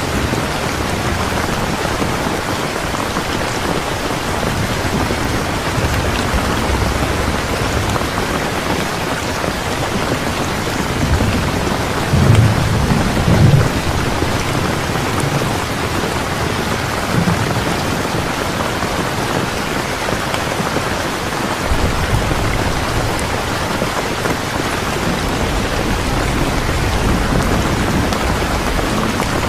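Steady rain, with a low rumble of thunder that swells about twelve seconds in and fades over a couple of seconds.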